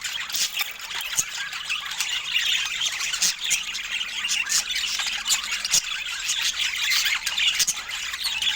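Budgerigars chattering and squawking without a break, a dense run of high chirps and short sharp calls.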